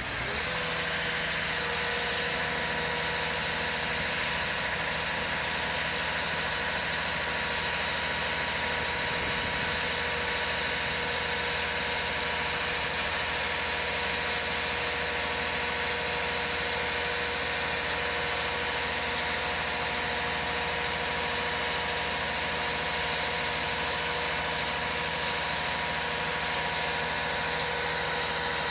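A heavy vehicle's engine running steadily, with a whine that rises in the first second and then holds at a constant pitch.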